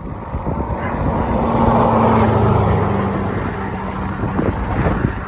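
A motor vehicle passing by: tyre and engine noise swells to a peak about two seconds in, with a low engine hum at its loudest, then fades.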